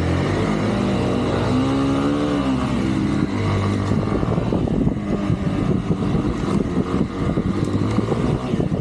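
Off-road vehicle engine running under load, its pitch rising and falling as it revs about two seconds in. From about halfway through it turns rough, with a rapid, irregular run of knocks and rattles.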